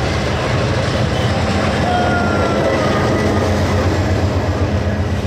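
Passenger train passing at close range. The diesel locomotive's engine drones steadily, then the coaches rumble by on the rails.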